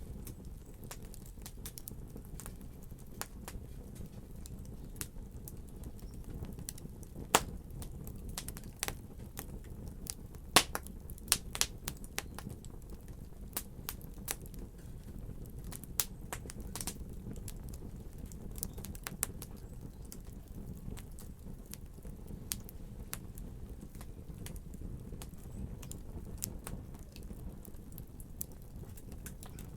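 Wood fire crackling in a fireplace: scattered sharp pops and snaps over a steady low rumble of burning, the pops busiest and loudest in the middle.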